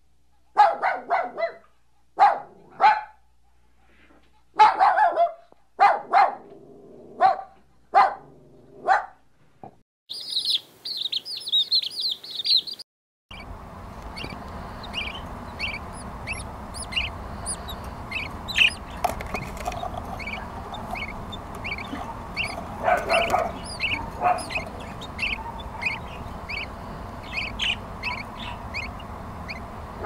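A puppy barking in short, sharp barks, about a dozen over the first nine seconds. Then a few seconds of high, rapid chirping, and after that parrot chicks calling with many short high chirps over a steady hiss, with a couple of louder squawks.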